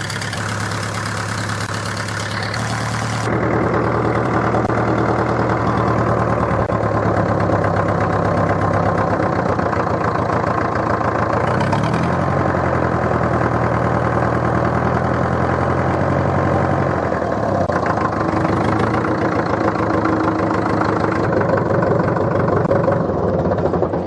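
International B-275 tractor's four-cylinder diesel engine running after a cold start. Its speed steps up about three seconds in, then shifts again near the middle and once more later on.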